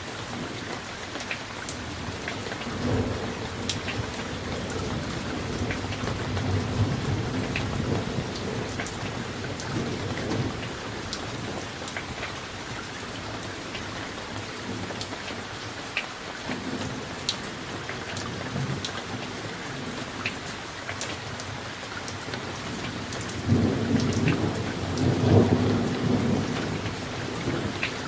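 Summer thunderstorm: steady rain with single drops ticking close by, and thunder rolling low, in a long rumble during the first third and a louder one near the end.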